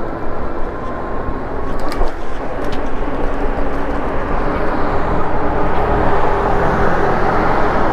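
Wind and road noise while riding an e-bike, a steady loud rush with a faint whine in it that rises slightly in pitch.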